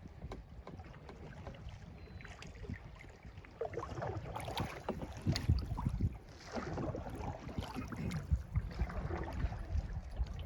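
Kayak paddle blades dipping and splashing in lake water, strokes coming about once a second and louder from about four seconds in, over a steady low rumble of wind on the microphone.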